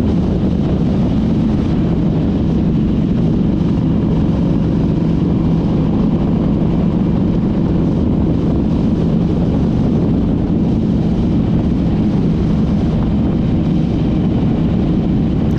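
Harley-Davidson touring motorcycle's V-twin engine running at a steady cruising speed on the road, a continuous low drone with no gear changes or revving.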